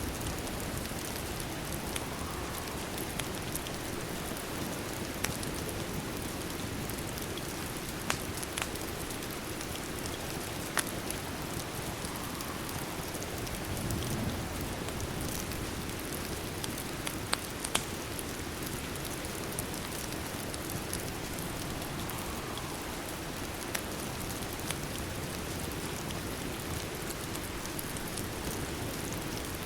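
Steady rain falling, an even hiss of drops, with a few sharp crackles from a fireplace fire standing out about eight, eleven and seventeen seconds in.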